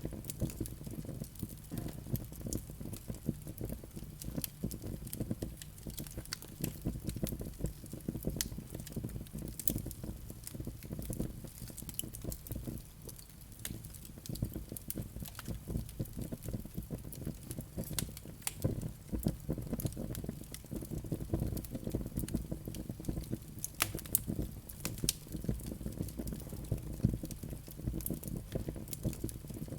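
Wood fire burning: many sharp crackles and pops scattered over a steady low background.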